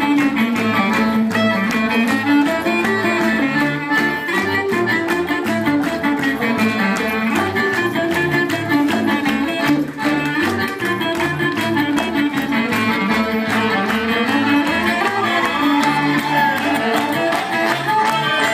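Acoustic gypsy-folk band playing an instrumental passage of a fast bulgar, the violin carrying the melody over a regular strummed beat and bass.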